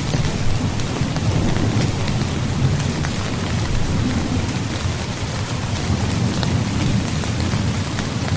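Heavy rain pattering steadily on a tent, with many fine drop ticks over a steady low rumble.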